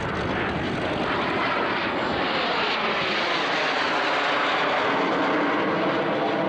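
A Jet Provost T Mk 4 jet trainer's turbojet running at display power as the aircraft flies overhead, a steady jet noise that swells slightly as it comes closer.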